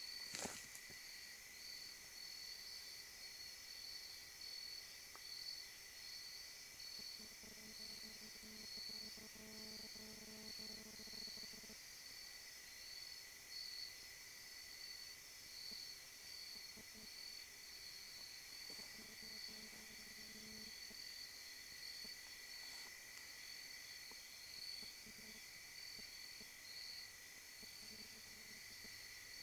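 Insects trilling steadily, a continuous high shrill with a rapidly pulsing upper note. A faint low hum comes and goes twice underneath.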